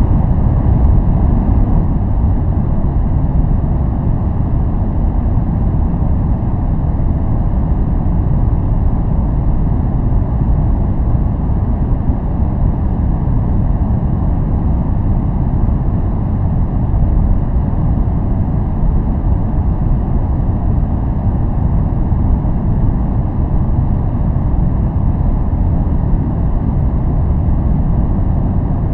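Steady, unchanging noise track played for focus, a deep rushing hiss with most of its weight in the low end.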